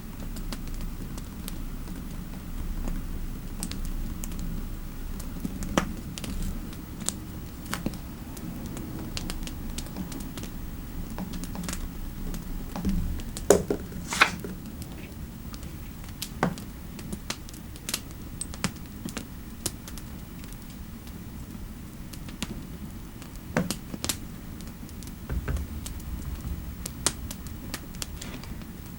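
Computer keyboard typing in irregular, unhurried keystrokes, with a few louder clicks around the middle, over a steady low fireplace rumble.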